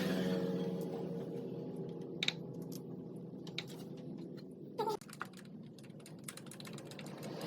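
Motorcycle engine idling after a rev, its steady hum slowly getting quieter, with a few sharp irregular clicks over it.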